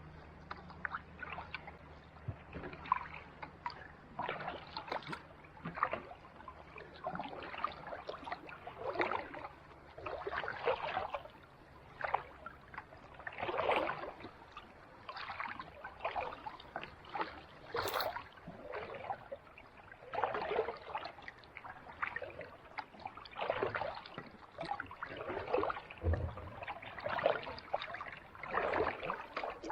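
Kayak paddle strokes on calm sea water: the blades dip in and water trickles and splashes off them every second or two. One sharp click about two thirds of the way through.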